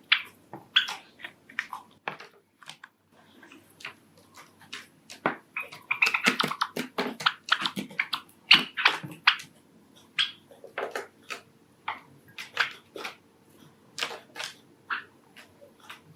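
Pet Java sparrows making short, irregular chirps and clicks, busier about six seconds in and again around nine seconds.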